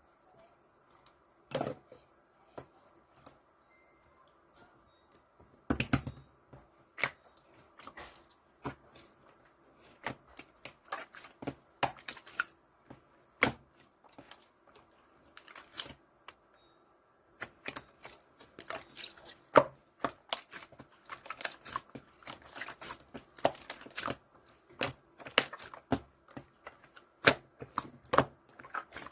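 Hands squishing and stretching clear slime, making a run of irregular sticky pops and clicks, with a brief pause a little past halfway.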